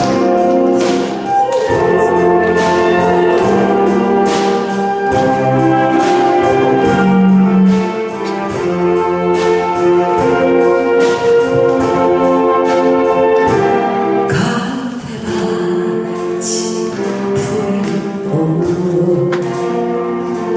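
A saxophone ensemble plays a melody in several sustained parts over a steady drum beat.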